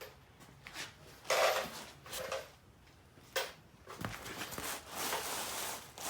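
A few short scraping and knocking sounds of parts and tools being handled, with one sharp click in the middle and a longer rustle near the end.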